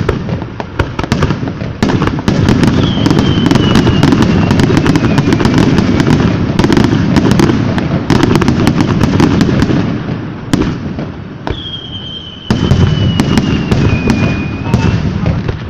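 Fireworks going off: a rapid crackle of sharp pops over a dense, rushing noise, which dips for about two seconds in the middle. Twice a thin whistle slides slowly down in pitch.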